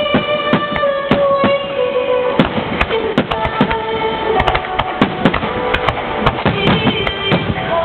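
Fireworks shells bursting in rapid, irregular succession during a finale, over music with long held notes.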